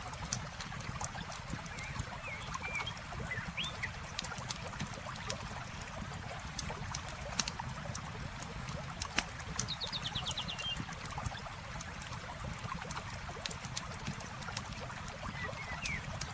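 Campfire crackling with frequent sharp pops over a steady low rush of flowing water. A few short bird chirps come near the start and near the end, and a quick rapid trill about ten seconds in.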